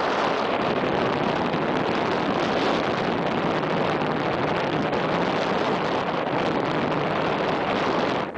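Steady wind noise buffeting the microphone, a loud, even rush. It dips briefly near the end.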